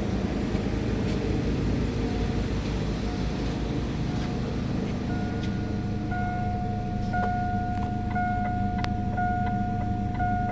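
2008 Saturn Astra's 1.8L four-cylinder engine running steadily. About halfway through, a steady electronic tone starts, with a click about once a second.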